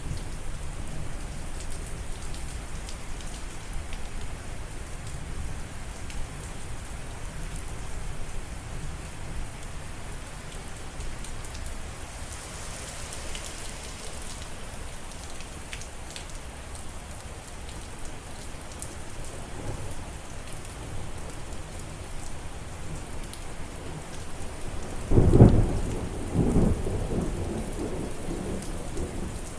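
Steady rain falling, with a loud clap of thunder near the end that rolls on in a second, lower rumble.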